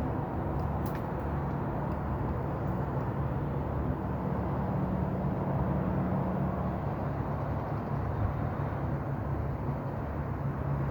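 Steady low rumble of city ambience, wind mixed with distant traffic, with a faint steady hum and one faint click about a second in.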